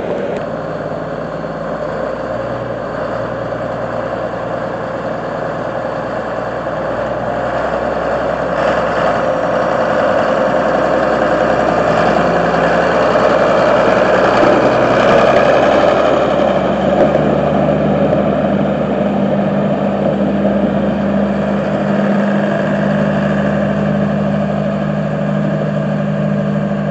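John Deere 4055 tractor's six-cylinder diesel engine running as the tractor is driven, growing louder toward the middle and easing off, with a steadier low hum setting in about two-thirds of the way through.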